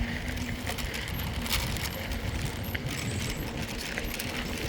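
Mountain bike rolling along a trail, with wind rumbling on the phone's microphone, tyre noise and scattered light clicks and rattles from the bike.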